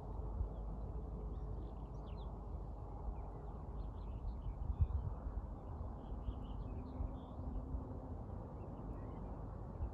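Faint birds chirping in short, scattered calls over a steady low rush of background noise, with a few soft low thumps about five seconds in.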